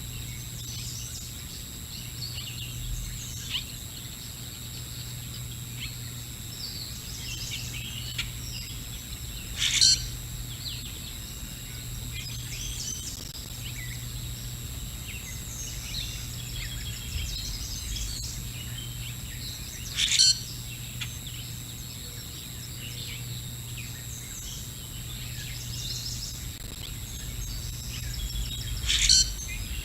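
Wild birds calling outdoors: many short, faint chirps throughout, with a louder call three times, about ten seconds apart. A steady low hum runs underneath.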